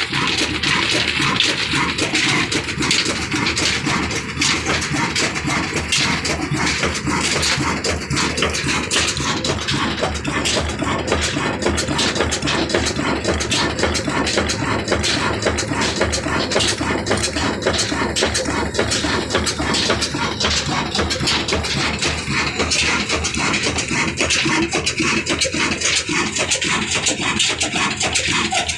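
Stationary desi diesel oil engine running steadily, a dense, rapid mechanical clatter that stays even throughout.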